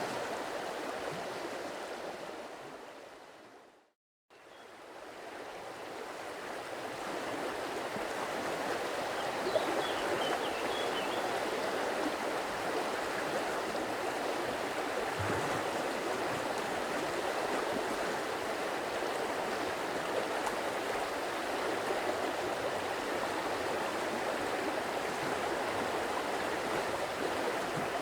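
Stream water flowing over rocks, a steady rushing and trickling. About four seconds in it fades out to a moment of silence and then fades back up.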